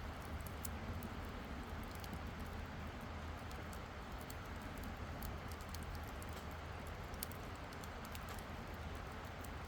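Wood campfire crackling: many small irregular pops and snaps over a steady low hiss of the burning fire.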